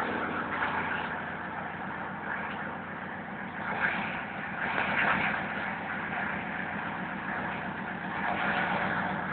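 Mercedes W124 200D's four-cylinder diesel engine idling steadily, still running cold about two minutes after a cold start from ten days' standing.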